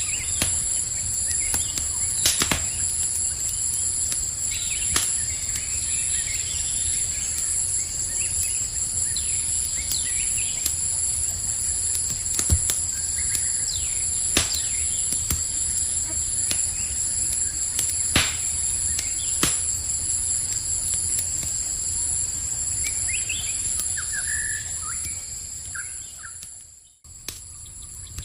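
Campfire crackling with sharp pops every few seconds, under a steady high trilling of crickets, with scattered bird chirps. Near the end the whole sound fades out briefly and comes back.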